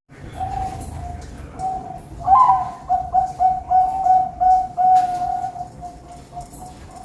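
Zebra doves (perkutut) cooing, with a louder, quick run of coos starting about two seconds in and tailing off over the next few seconds.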